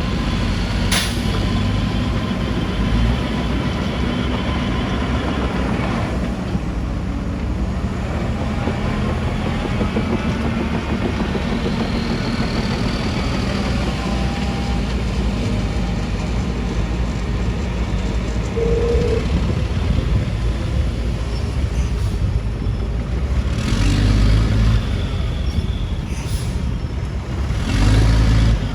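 Heavy diesel earthmoving machinery running steadily with a deep engine rumble. There is a sharp knock about a second in, and louder surges of noise about two thirds of the way through and again near the end.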